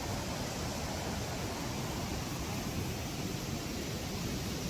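Steady rushing of a waterfall and river, an even hiss of falling water with no breaks.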